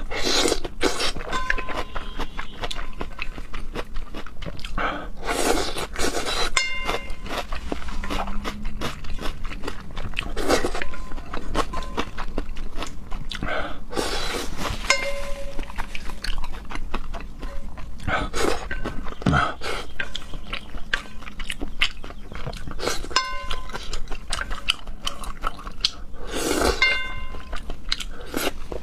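Close-miked eating of raw seafood: wet chewing, smacking and lip clicks, with a few short ringing clinks of utensils against a dish.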